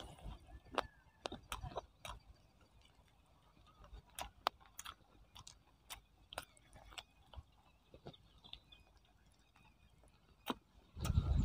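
A person eating chicken biryani by hand, chewing and biting chicken: sharp wet mouth clicks and smacks come irregularly, with quiet gaps between.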